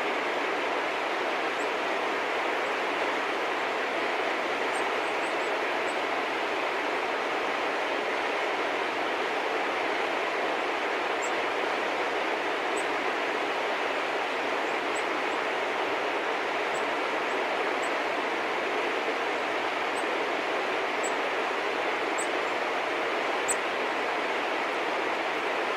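A steady rushing background noise, with brief, faint, high chirps of small birds scattered through it.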